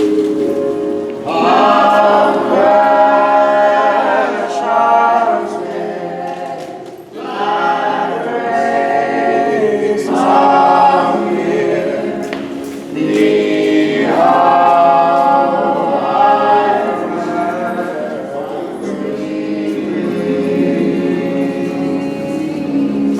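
A choir of several voices singing together, holding long notes in phrases that break off briefly about every five or six seconds.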